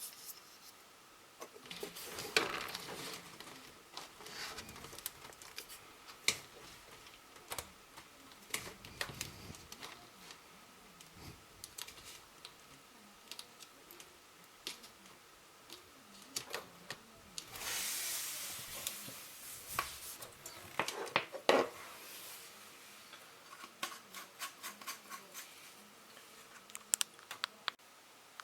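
Scattered small clicks, taps and knocks of hands handling hard objects, with a louder rustling, scraping noise lasting about two seconds midway and a few sharper knocks just after it.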